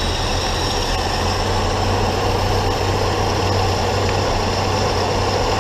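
Chevy II's carbureted inline engine idling steadily, freshly started after long storage. It sounds a little choky, running rich on an automatic choke that the owner suspects is set a little rich.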